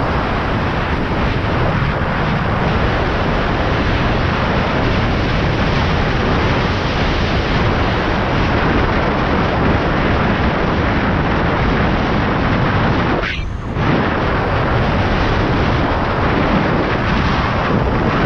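Loud, steady wind blasting the microphone on a fast-moving electric bike, covering any motor sound, with a brief drop about thirteen seconds in.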